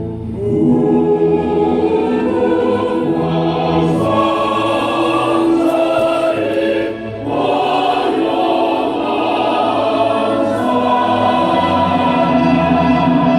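Choral music: a choir singing in long held notes, with a short break between phrases about seven seconds in.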